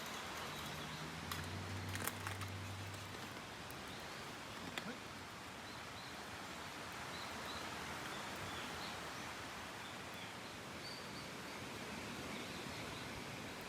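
Steady outdoor background hiss, with a few sharp clicks about two seconds in and faint, short, high bird chirps in the second half.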